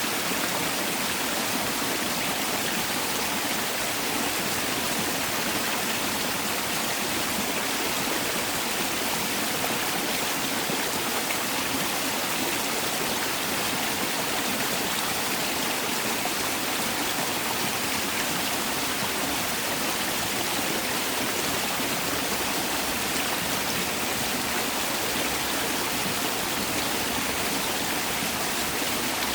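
Mountain valley stream running over rocks: a steady, unbroken rush of flowing water.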